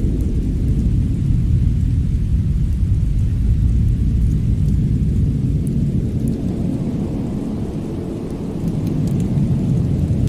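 Fireplace fire burning with a steady low rumble and occasional faint crackles; the rumble eases briefly about eight seconds in.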